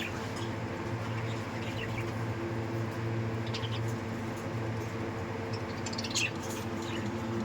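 White budgerigars chirping in short, scattered calls, with a louder cluster near the end, over a steady low hum.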